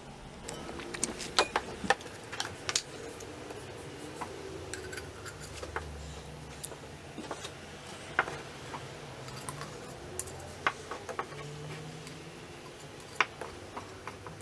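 Irregular metallic clicks and knocks of a vintage Alemite hydraulic grease gun being handled while it is loaded with grease, over a faint steady low hum.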